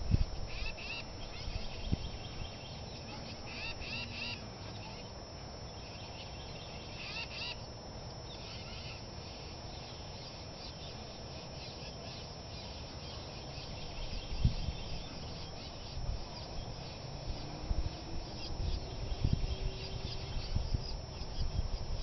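Small birds chirping in quick bursts of high calls, most of them in the first eight seconds, over a low rumble with a few thumps.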